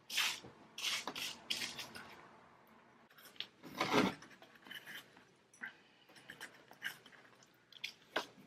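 Irregular handling sounds of objects being moved about by hand: short rubbing and scraping noises with light knocks, the loudest about four seconds in.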